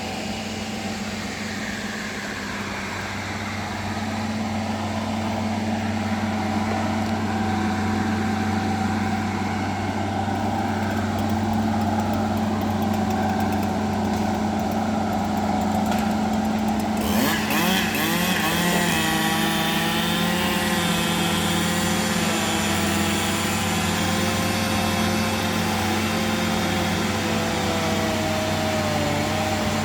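Bulldozer's diesel engine running steadily. About halfway through the sound abruptly turns brighter and harsher, with a wavering higher whine on top.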